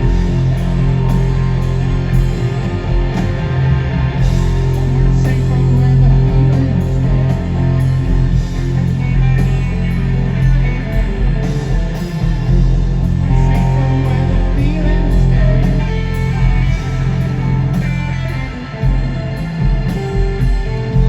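Live rock band playing loud, led by electric guitar over bass and drums, with long sustained guitar notes and no clear singing.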